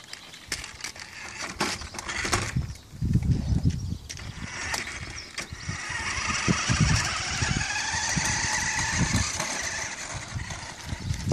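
Remote-controlled toy monster truck's electric motor whining as it drives, the pitch wavering up and down with speed, along with a few clicks and irregular low thumps.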